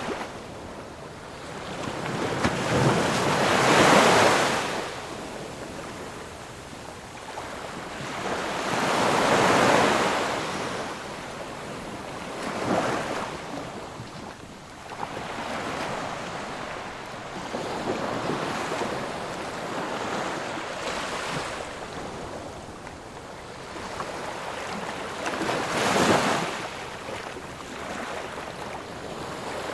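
Sea surf: waves break one after another, each swelling into a rush of foam and then washing back. Four larger waves break, the loudest about four seconds in and another near the end, with gentler wash between.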